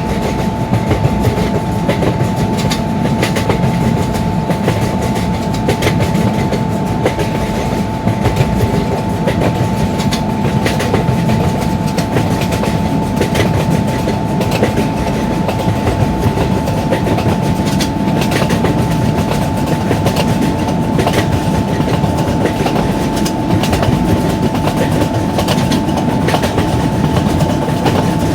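A long train rolling at high speed: a loud, steady rumble with a rapid clickety-clack of wheels over the rail joints, and a steady high tone running through it.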